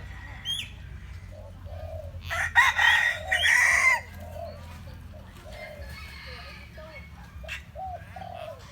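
A loud rooster-like crow about two and a half seconds in, lasting about a second and a half. Short, low clucking notes repeat steadily underneath.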